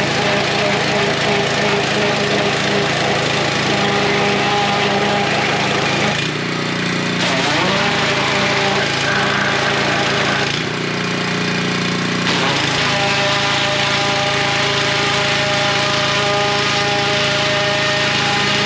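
Pressure washer running with its small engine and spraying steadily, the hiss of the spray easing twice for about a second, near 6 and 11 seconds in, while the motor keeps running.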